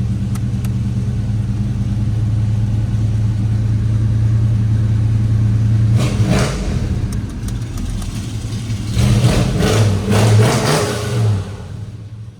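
Crate 350 V8 in a 1980 Chevrolet El Camino, through dual exhaust, idling steadily, then revved about six seconds in and blipped several more times near the end before settling back.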